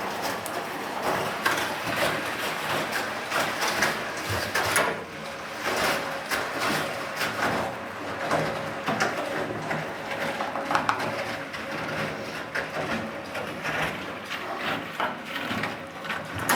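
1956 Eudora B09 semi-automatic washing machine running after a bearing repair: a dense, steady churning noise full of small knocks and creaks.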